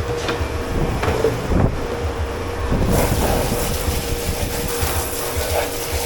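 Dish-pit working noise in a commercial kitchen: a low rumble and a steady hum, with scattered knocks and clatter. A hiss comes in about three seconds in.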